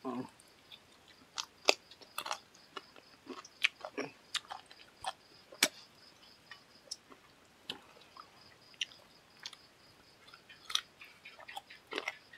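Close-miked chewing of chicken and fish curry with rice: irregular wet mouth smacks and sharp clicks, a few at a time with short pauses between.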